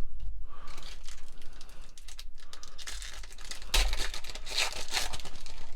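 Trading-card booster-pack wrapper being torn open and crinkled by hand, a noisy rustling with its loudest bursts about four seconds in.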